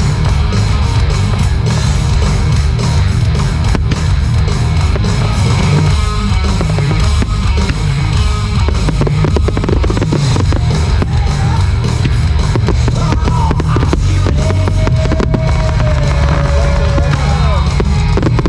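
Rock music playing loudly over a fireworks display, with a dense, rapid string of firework bursts and crackles throughout.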